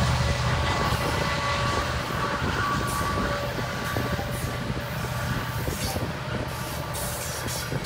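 Loaded coal train cars rolling past: a steady rumble of steel wheels on rail, easing slightly, with a faint high whine that comes and goes and light clicks.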